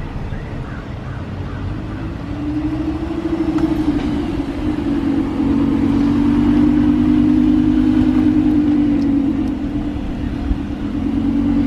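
A car engine running steadily over a low rumble, its pitch rising a little a few seconds in and then holding.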